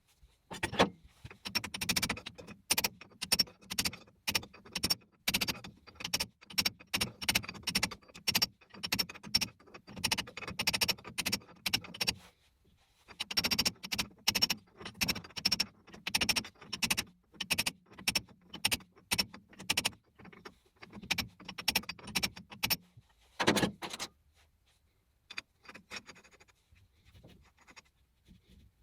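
Rapid, irregular metallic clinks and knocks, about three or four a second in runs broken by short pauses, with one louder knock near the end, as of metal parts or tools being handled.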